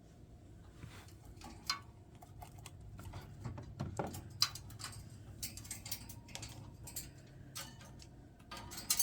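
An African grey parrot moving about on a toy, making irregular light clicks and taps.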